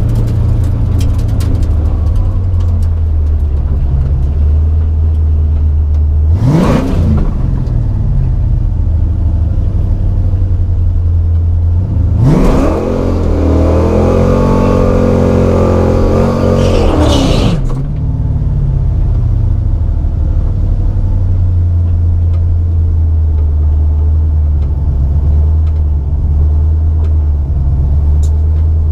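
Car engine rumbling steadily, with a quick rev up and down about six seconds in and a longer climb, hold and drop in engine pitch over several seconds near the middle.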